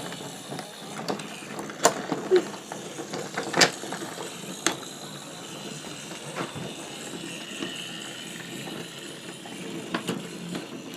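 Small gear motor of a battery-operated Thomas wooden-railway toy engine whirring steadily as it runs along the track, with a few sharp clicks.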